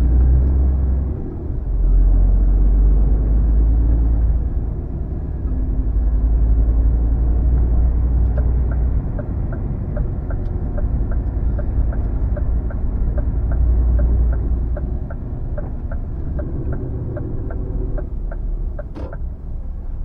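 Lorry cab interior on the move: steady low rumble of the HGV's diesel engine and road noise. In the middle a regular clicking starts, about two ticks a second, and stops shortly before the end, like a turn-signal indicator.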